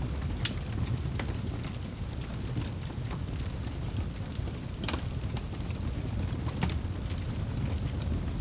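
Wood fire crackling in a fireplace, with irregular sharp pops over a steady low rumble; the loudest pop comes about five seconds in.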